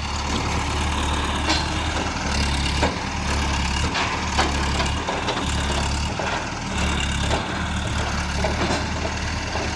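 Heavy diesel engine of a loading crane running steadily, with a few sharp knocks and clanks at irregular moments.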